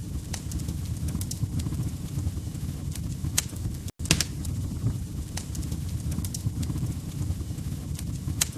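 Wood fire burning in a fireplace: a steady low rumble of flames with irregular sharp crackles and pops from the logs, several of them loud. The sound cuts out briefly about four seconds in.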